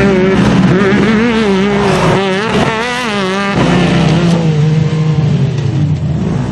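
Off-road vehicle engine running hard and revving, its pitch wavering up and down with quick rises and falls about two to three seconds in.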